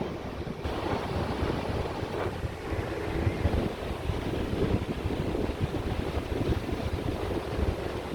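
Ocean surf breaking hard and rushing on the beach, with wind buffeting the microphone in low, uneven gusts.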